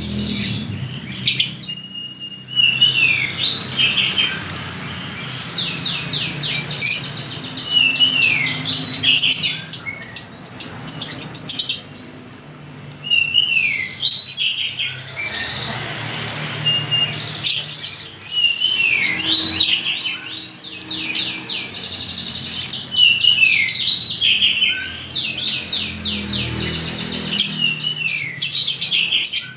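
Greater green leafbird (cucak hijau) singing almost without pause: fast chattering trills mixed with repeated downward-sliding whistles, broken by a few short gaps. A low steady hum runs underneath.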